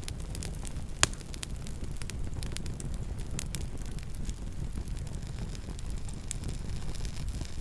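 Campfire burning: a steady low rumble of the flames with scattered sharp crackles and pops of burning wood, one louder pop about a second in.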